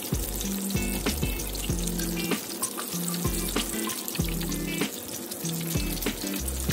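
Flour-dredged chicken necks deep-frying in hot oil, bubbling and crackling steadily.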